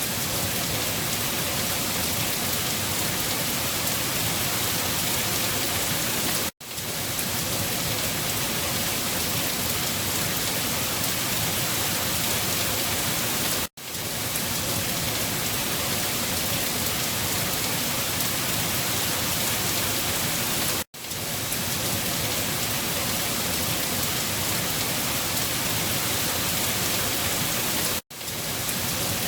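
Steady heavy rain falling, an even dense hiss, broken by a brief dip to silence about every seven seconds.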